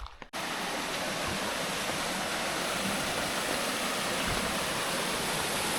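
Steady, even rush of a waterfall, cutting in abruptly a moment in.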